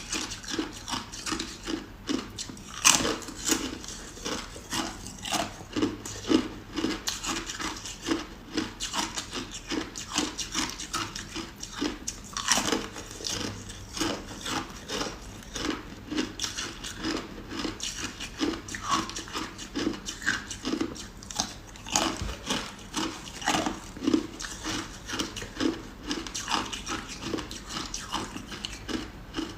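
Ice cubes being bitten and chewed close to the microphone, a steady run of crisp crunches about two to three times a second.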